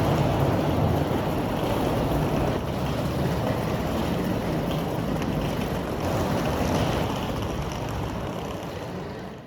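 Steady rushing, rumbling noise that fades out over the last two seconds.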